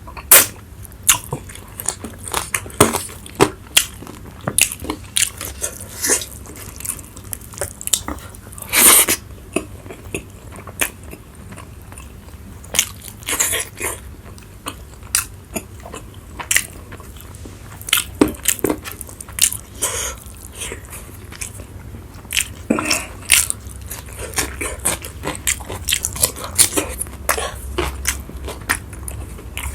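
Close-miked eating sounds: chewing and biting with irregular crunches, smacks and moist mouth clicks. A longer burst of crunching comes about nine seconds in.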